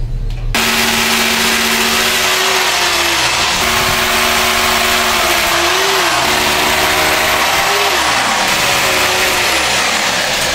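A loud motor-driven machine running steadily. It starts abruptly about half a second in and stops just before the end, and its hum wavers briefly in pitch twice.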